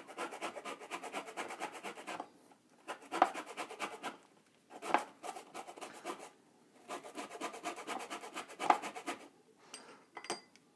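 Orange peel being grated on a handheld zester: rapid rasping strokes in about four runs, with short pauses between them.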